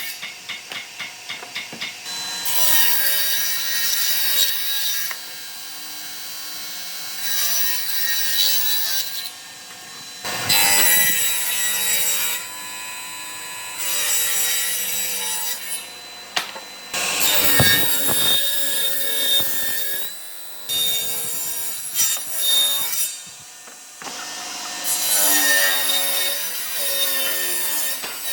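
A tool cutting or rubbing wood in repeated passes of a few seconds each, with short pauses between them. In the first couple of seconds it comes as a quick run of evenly spaced strokes.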